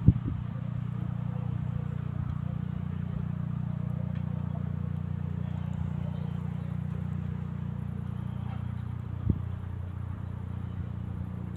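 Eurocopter AS365 Dauphin helicopter droning steadily at a distance, a low hum that holds level while it approaches. A single short knock about nine seconds in.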